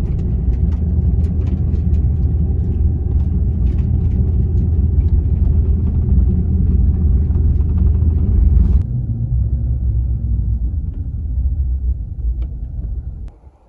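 Vehicle driving: a steady low rumble with scattered rattles and clicks. The sound changes abruptly and softens about nine seconds in, then drops away just before the end.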